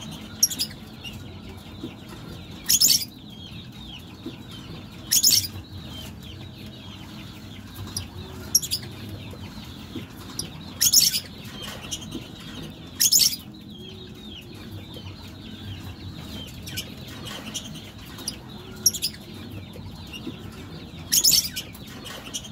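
Birds calling with short, sharp, shrill calls, a loud one every few seconds and softer ones between, over a steady low background hum.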